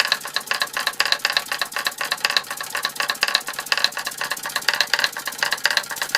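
Antique toy steam engine driving small Martinet model steam hammers, a fast, even rattling clatter of many light metal strikes a second.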